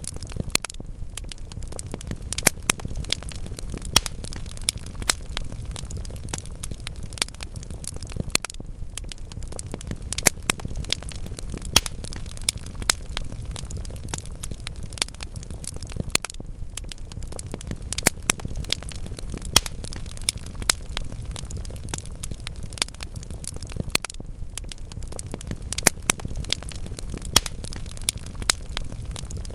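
Burning wood logs in a fireplace crackling and popping irregularly over a low, steady rumble of flames, with a few louder, sharper pops here and there.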